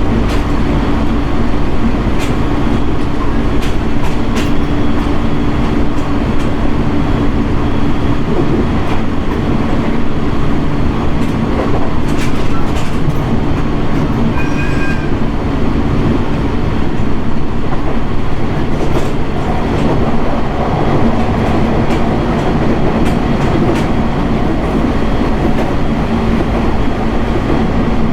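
Running noise of a JR East 701 series 1000-subseries electric train at speed: a steady rumble with scattered clicks from the wheels over rail joints. A low hum runs under it, drops away a little past halfway and comes back near the end.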